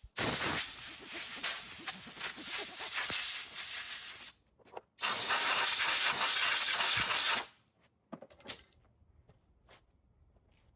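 Compressed-air blow gun blowing out a lawnmower's paper air filter: two long hissing blasts, the second about a second after the first ends and steadier, then a few faint clicks.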